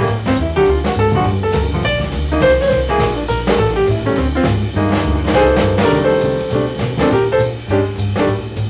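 Bebop jazz sextet playing live: alto saxophone, trombone and trumpet over piano, double bass and drum kit.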